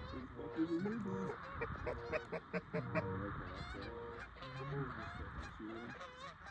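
Geese honking and clucking, many calls overlapping, with a fast run of short clucks around the middle.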